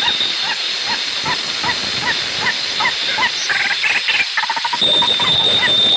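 A bird calling over and over in short rising chirps, about three a second, with a denser run of notes a little past halfway. A steady high-pitched whine comes in near the end.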